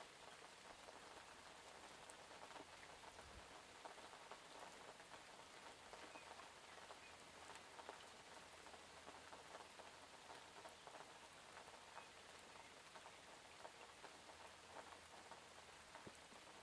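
Faint, steady rain, with many individual raindrops pattering on a surface as small scattered ticks over an even hiss.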